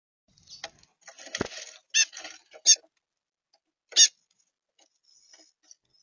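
Small birds at a feeder: scattered light taps and a sharp knock, then three short, loud chirps.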